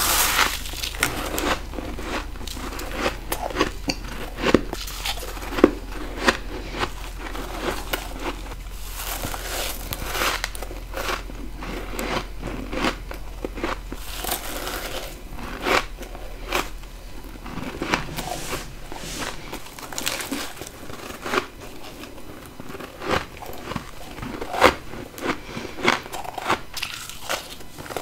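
Close-up crunching bites into powdery freezer frost built up from a humidifier, a quick run of crisp crackling crunches, some in clusters, with chewing between the bites. A low steady hum fades out about two-thirds of the way through.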